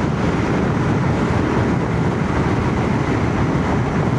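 Steady wind rush and engine and road noise from a motorcycle at speed, heard through a microphone inside a full-face helmet, with the Royal Enfield Shotgun 650's parallel-twin running underneath.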